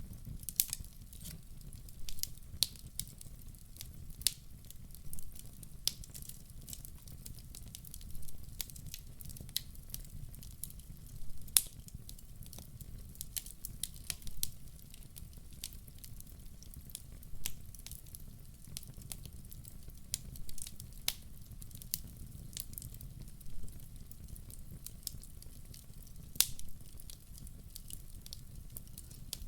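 Wood fire burning in a fireplace: a steady low rumble of flames with irregular sharp crackles and pops, a few of them much louder than the rest.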